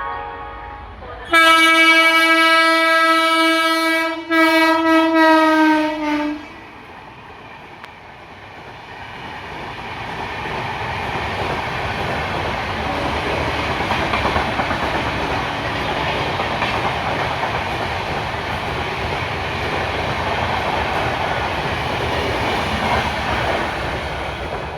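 Train horn sounding two loud blasts, the second slightly shorter and dipping in pitch as it ends. Then a train running past on the track, its noise building over several seconds and staying loud.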